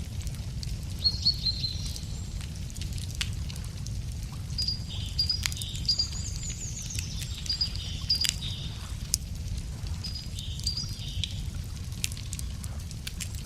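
Campfire wood crackling, with sharp pops scattered throughout over a steady low rumble. Songbirds sing in three spells: about a second in, from about four and a half to eight and a half seconds, and around ten to eleven seconds.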